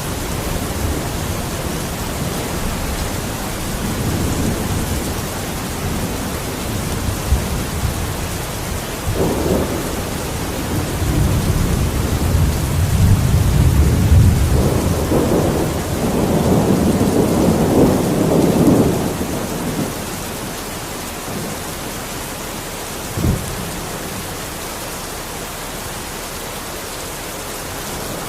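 Steady rain with rolling thunder: a long low rumble builds through the middle and then fades away. A single short sharp crack follows a few seconds later.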